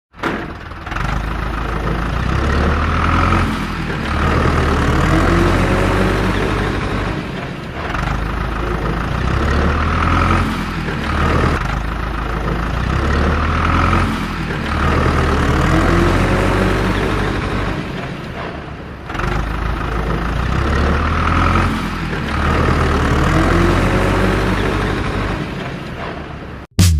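Heavy diesel vehicle engine running, revving up and settling back in a cycle that repeats almost exactly about every three and a half seconds, like a looped engine sound. It cuts off abruptly at the end.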